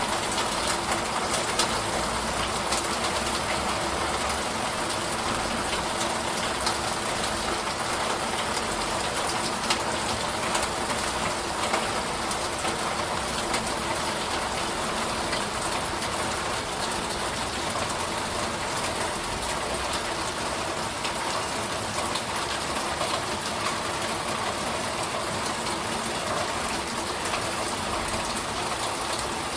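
Steady heavy rain, an even wash of noise with many small drop ticks scattered through it.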